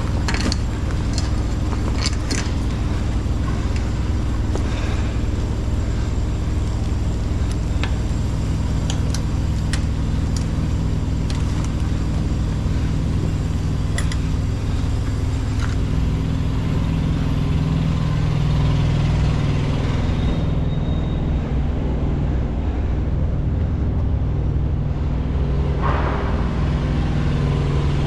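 A truck's diesel engine idling steadily, with scattered light clicks and taps over it during the first half. The idle grows slightly louder a little past the middle, and a brief rustle comes near the end.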